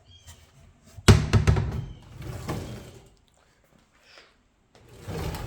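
A door being handled: a sharp thunk about a second in, followed by about two seconds of rattling, then another knock and rattle near the end.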